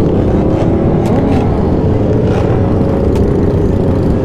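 Vehicle engines running steadily in traffic, holding a near-constant pitch that eases slightly lower, over continuous road and wind noise.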